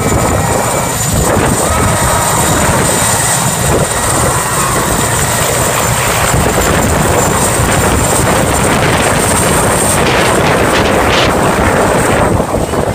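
Helicopter taking off, loud: the dense, choppy beat of the rotor blades with a steady high turbine whine over it.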